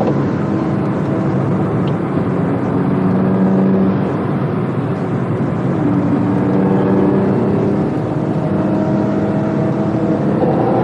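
BMW M2 Competition's twin-turbo straight-six heard from inside the cabin under hard driving, over steady road and wind noise. The engine note holds fairly level at first, then climbs from about six seconds in, drops near eight seconds and climbs again.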